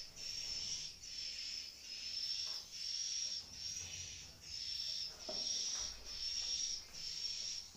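Swiftlets' high twittering chirp calls, repeating in an even rhythm of roughly one and a half calls a second. A soft knock comes about five seconds in.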